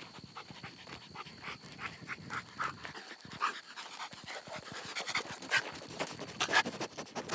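A dog panting in quick, short breaths, louder in the second half.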